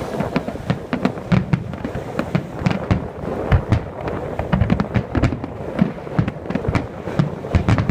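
Aerial fireworks bursting in a rapid, dense series of bangs, several a second, without a break.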